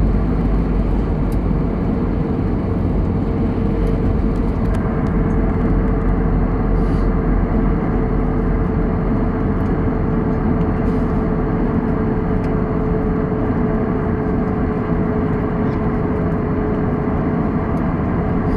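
Airbus A320 cabin noise in flight: the steady roar of the jet engines and rushing air, with a steady hum running through it and a few faint clicks.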